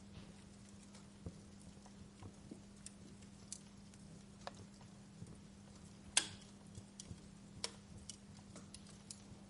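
Wood fire crackling: scattered pops and snaps at irregular intervals, the sharpest one a little past the middle, over a faint steady low hum.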